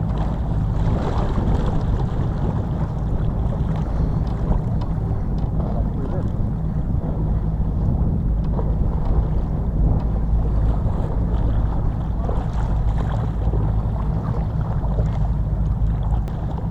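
Boat motor running steadily, a low, even rumble, with wind buffeting the microphone.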